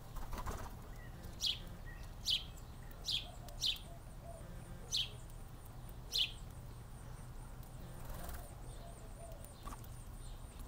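Small bird chirping near a feeder: six short, sharp chirps, each sliding down in pitch, spaced irregularly over the first six seconds. A faint, fast, high-pitched repeating call continues after that, over a steady low hum.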